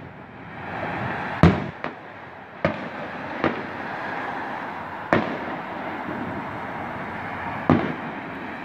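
Aerial fireworks shells bursting at a distance: six sharp bangs at uneven intervals, each trailing off in an echo, the loudest about a second and a half in.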